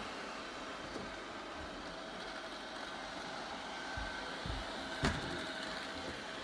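ILIFE V10 robot vacuum cleaner running: a steady motor whir with a few light knocks, the loudest about five seconds in.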